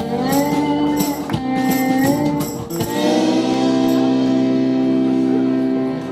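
Live pop-rock band playing the song's final bars with regular percussion hits, then holding one last chord for about three seconds as the song ends.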